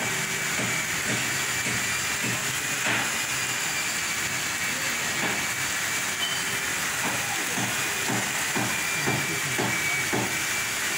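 Heavy downpour: rain falling steadily as an even hiss, with irregular short taps, most of them in the second half.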